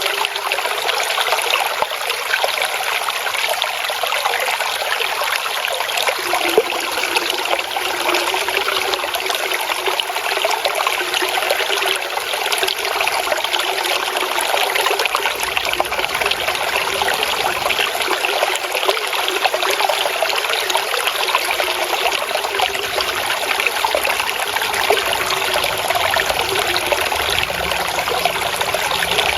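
Water trickling and babbling steadily in a shallow stream.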